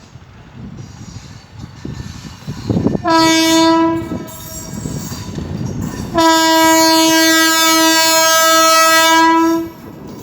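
Indian Railways MEMU train's horn sounding twice: a short blast about three seconds in, then a long blast of about three and a half seconds. Under both blasts runs the low rumble of the train on the track.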